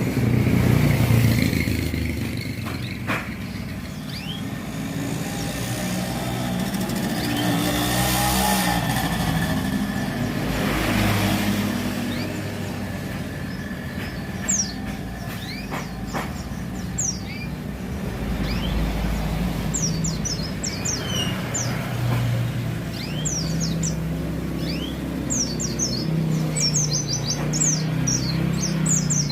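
Roadside traffic, cars and motorcycles passing, with a white-eye (pleci) chirping over it in quick, high twittering notes. The chirps are sparse at first and come thick and fast in the last third.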